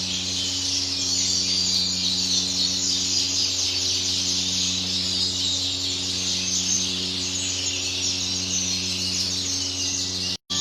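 Many canaries chirping and twittering together in a bird room, a dense continuous chatter over a steady low electrical hum. The sound cuts out completely for a moment just before the end.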